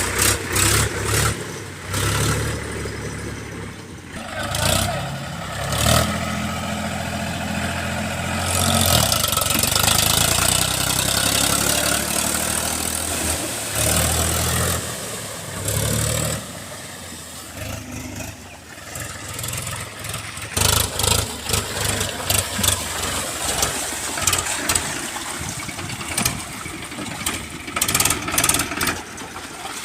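Powertrac Euro 42 Plus tractor's diesel engine running, its steady low note strengthening and fading by turns, with irregular knocks and rustling over it.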